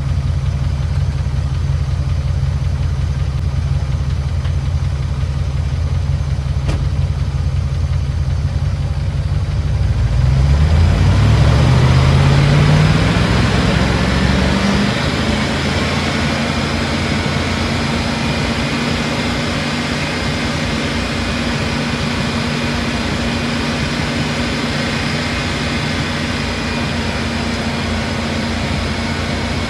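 Range Rover P38's V8 engine idling, then revved up over several seconds about ten seconds in and held at a raised, steady speed. It still runs somewhat rough while Rislone works on a sticking valve or lifter.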